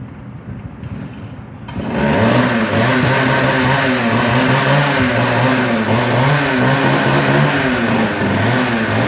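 Two-stroke hot saw (gas cut-off saw) engine catches about two seconds in and keeps running with an unsteady speed that wavers up and down. The saw has sat unused for a year and a half to two years and has just had its carburettor cleaned and fresh fuel put in.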